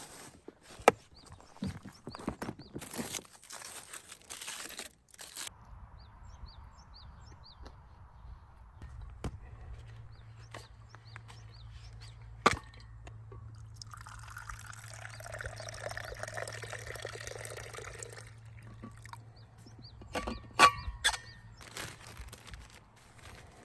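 Liquid being poured for about four seconds, with scattered clicks and knocks of gear being handled around it.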